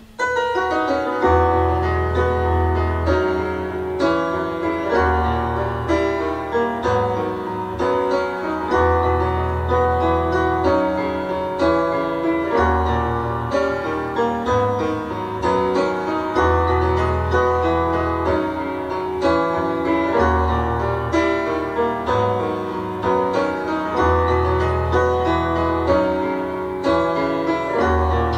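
Piano-led keyboard music: full chords over low bass notes that return in blocks every couple of seconds, coming in suddenly and loudly at the start.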